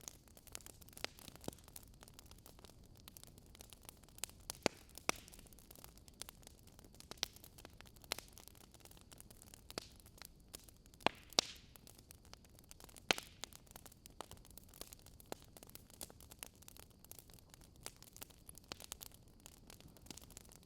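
Wood burning in a fireplace, the logs crackling with irregular sharp pops over a faint steady hiss, a few louder pops near the middle.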